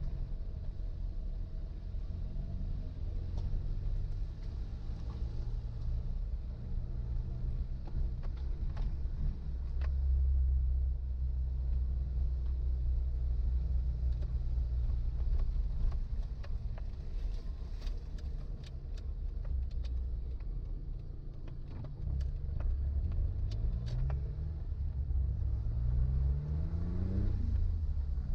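Suzuki Jimny engine running low under load while driving a rough forest road, with scattered sharp clicks and knocks over the rumble. Near the end the engine note climbs steadily, then drops suddenly, as at a gear change.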